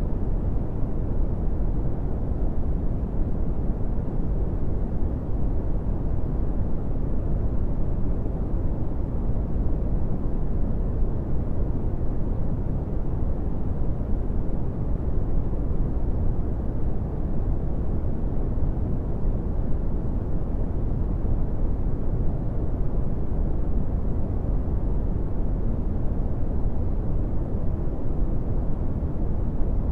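Steady brown noise: an even, deep rumbling hiss, strongest in the bass and dull in the treble, unchanging throughout.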